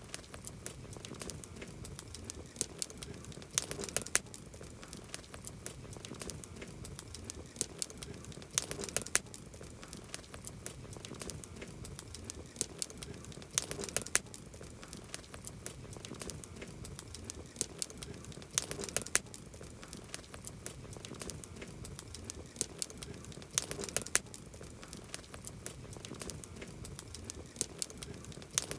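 Campfire of burning wood crackling and popping: a constant scatter of sharp snaps over a soft low rush of flame, with louder clusters of pops about every five seconds.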